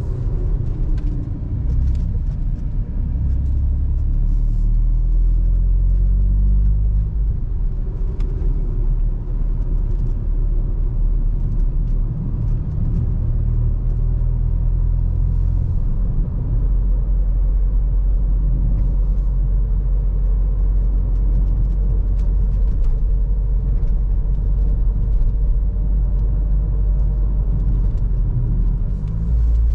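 Seat Ibiza 1.0 TSI three-cylinder turbo engine with a Friedrich sport exhaust, driving with a deep exhaust rumble. The engine note climbs over the first several seconds as the car pulls, then settles into a steady drone.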